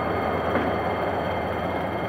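Passenger train coaches rolling slowly past, a steady rumble of steel wheels on the rails that slowly fades.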